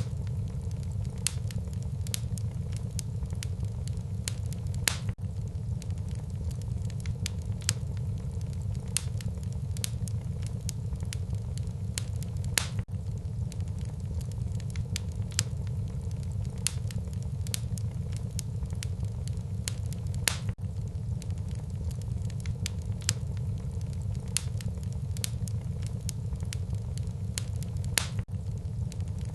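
Wood fire burning in a fireplace: a steady low rumble of flames with frequent sharp crackles and pops, and a louder snap about every seven or eight seconds.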